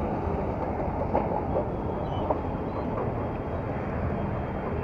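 Steady rumble and rattle of a moving train, with a few sharp clicks about a second in and again a little past two seconds.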